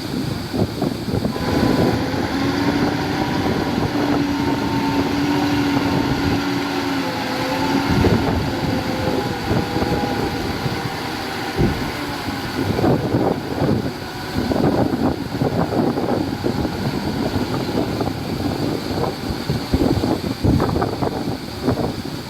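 Heavy earthmoving machinery at work. An engine runs with a steady pitched whine for roughly the first ten seconds, followed by irregular knocks and clanks.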